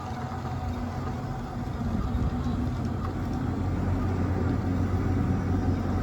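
Steady engine-like idling rumble, growing a little louder about two seconds in.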